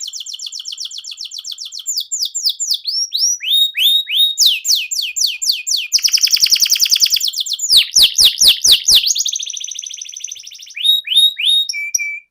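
Domestic canary singing: a fast run of trills and repeated downward-sweeping notes, switching to a new phrase every second or two, cut off abruptly near the end.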